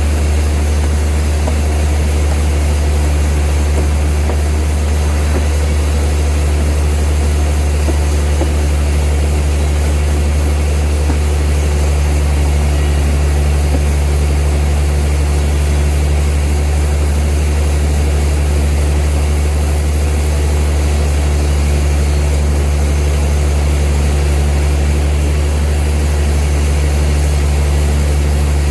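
Old sawmill machinery running with a steady, unchanging low drone.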